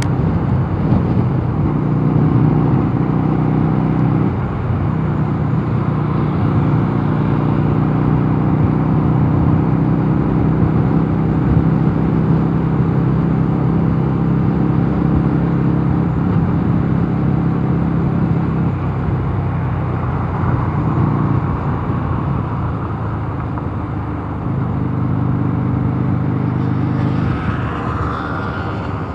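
Mondial Nevada 250 motorcycle engine running steadily while riding, with wind and road noise. The engine note shifts a few times, about four seconds in, around nineteen seconds and again around twenty-four seconds.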